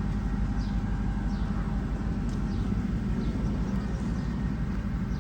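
Truck engine running steadily with a low rumble, driving the hydraulics of an Altec aerial lift while the boom is worked up or down.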